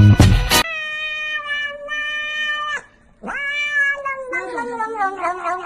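A cat giving two long, drawn-out yowls: the first held at a steady pitch for about two seconds, the second rising quickly and then sliding slowly down and wavering. A music track cuts off just before the first yowl.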